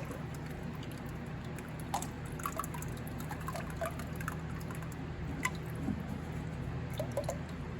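ISO 32 spindle oil being poured from a bottle into a lathe headstock, trickling with scattered small drips, over a steady low hum.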